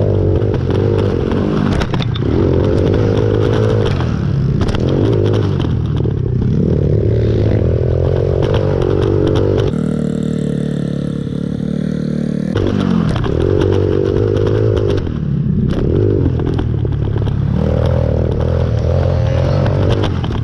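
Small pit-bike motorcycle engines revving up and down, their pitch rising and falling again and again as they ride the dirt track, with scattered knocks and rattles. For a couple of seconds near the middle the engine note holds steady.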